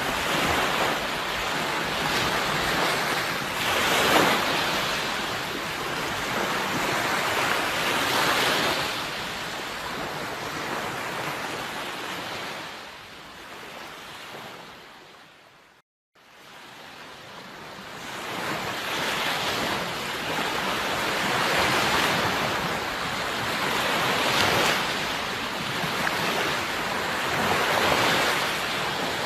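Sea waves washing in, swelling and easing every few seconds. The sound fades out to a moment of silence about halfway through, then fades back in.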